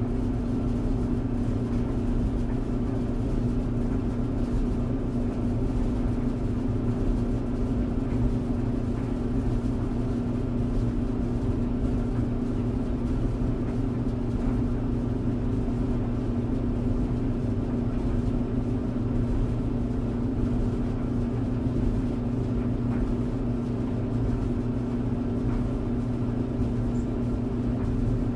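Tumble dryer running steadily: an even motor hum and drum rumble with a strong low tone, unchanging throughout.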